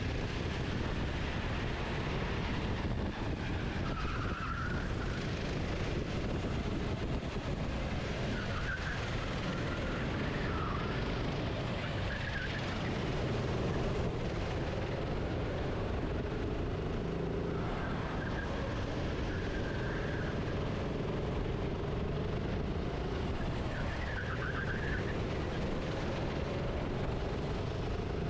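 Racing kart running at speed, heard from its onboard camera: a steady rush of engine and wind noise. A band of engine pitch rises and falls with the throttle, and brief wavering high tones come and go several times.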